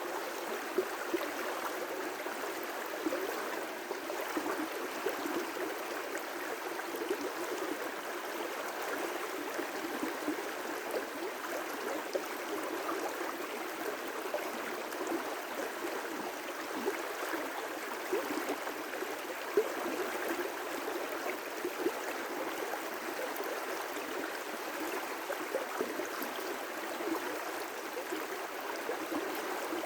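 River rapids rushing in a steady wash of water with little low rumble, and a few brief louder splashes.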